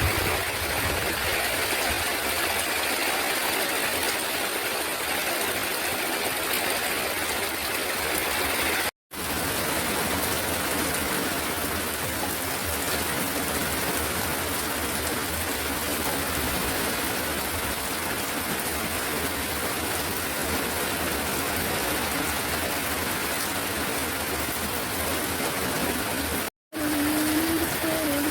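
Steady rain falling, an even hiss of water that cuts out for a split second twice. Near the end a steady low hum joins the rain.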